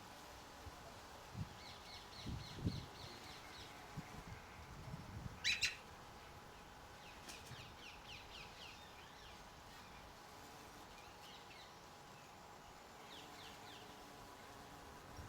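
Garden birds calling in quick runs of short chirps, several times over, with a loud sharp call or crack about five and a half seconds in and a few soft low thumps in the first five seconds.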